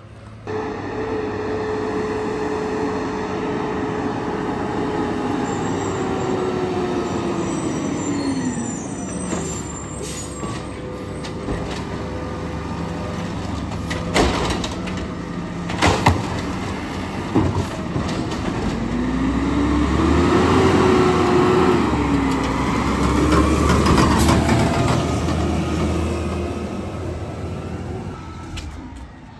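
Garbage truck running, with a whining tone that falls in pitch, later rises and falls again as the truck works. Two sharp bangs come about halfway through.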